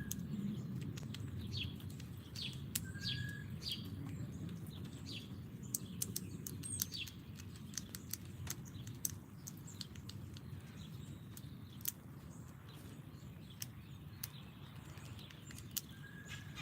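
Small songbirds chirping at a backyard feeder: repeated short downward chirps and a couple of brief whistled notes, over frequent sharp clicks and taps and a steady low rumble.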